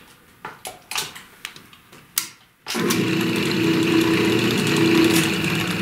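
Restored 1930s Delta DP220 drill press switched on for an unloaded test run: after a few light clicks, its electric motor and spindle start abruptly about halfway through and run steadily with an even hum and a higher whine. It runs very smooth.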